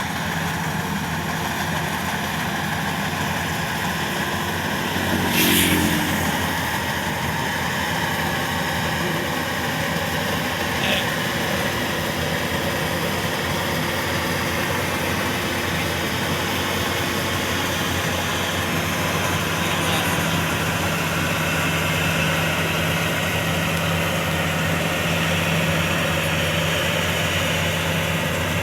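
Combine harvester engine running steadily, with a brief louder swell about five and a half seconds in.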